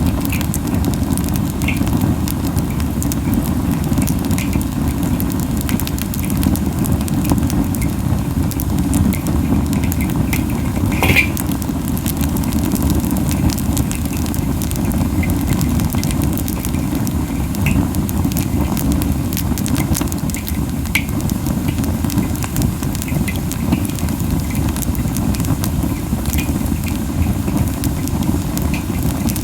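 Camellia wood burning hot in an open fire: a steady low rush of flame, strong because the fire is burning fiercely, with scattered crackles and a louder pop about eleven seconds in.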